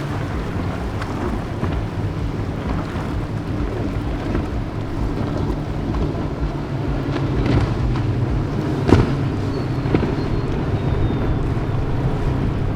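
Nor-Tech 340 Sport powerboat's engines running steadily through rough water, with wind buffeting the microphone and a brief sharp knock about nine seconds in.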